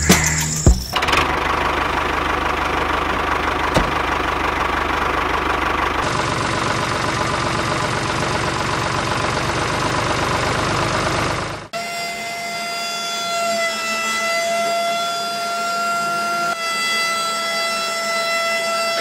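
Small electric motor of a homemade model tractor flour mill running: a rough, buzzing hum at first, then, after a sudden change about twelve seconds in, a steady high whine.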